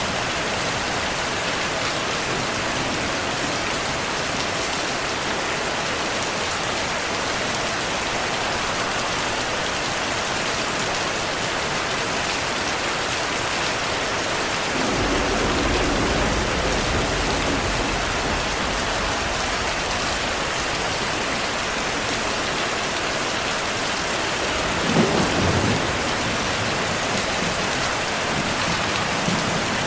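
Steady heavy rainfall with thunder: a low rumble rolls in about halfway through and fades over a few seconds, and a shorter, sharper thunderclap comes a few seconds before the end.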